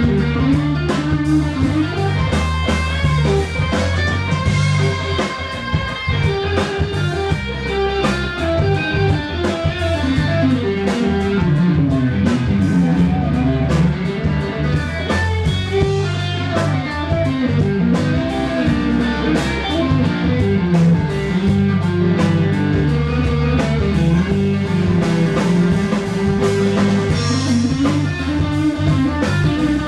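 Live blues-rock band playing an instrumental passage without singing: electric guitar playing a lead line with bent notes over bass and drums.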